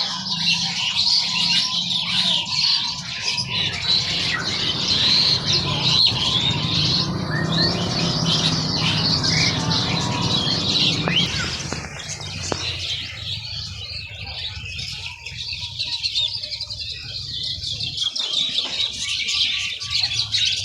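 Many caged songbirds chirping and twittering together, a dense overlapping chatter, with a low background hum that drops away about two-thirds of the way through.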